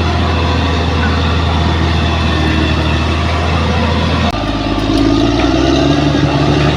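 Heavy diesel engine of a bulldozer running steadily. About four seconds in, the sound changes abruptly and the engine note rises a little as it works harder.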